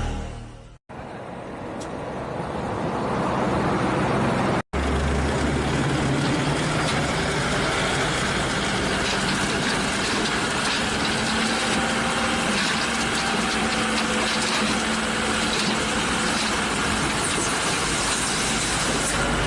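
Intro music fades out at the very start. After two brief cuts in the sound, heavy diesel engines run steadily at a soil-loading site.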